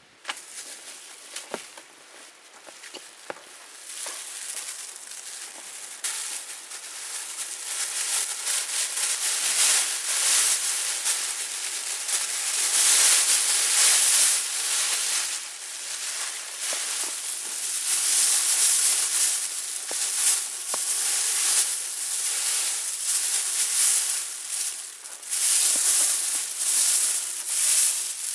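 Wood fire catching and burning: a few sharp pops at first, then a crackling hiss of flames that builds up over the first dozen seconds and stays loud, with many small snaps.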